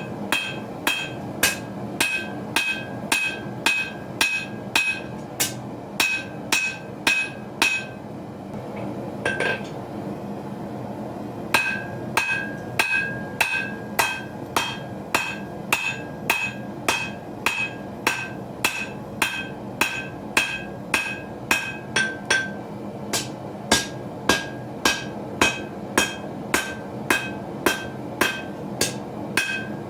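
Hand hammer striking hot steel on an anvil while forging a knife blade, about two ringing blows a second in a steady rhythm. The blows stop for about three seconds near a third of the way in, with one lone strike in the gap, then resume.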